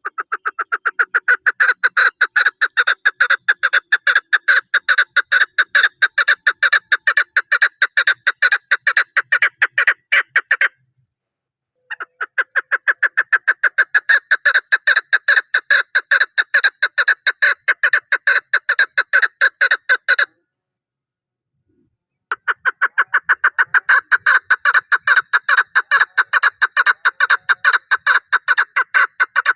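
Chukar partridge (chakor) calling: a long, rapid run of repeated clucking notes, about four or five a second, in three long bouts broken by two short pauses.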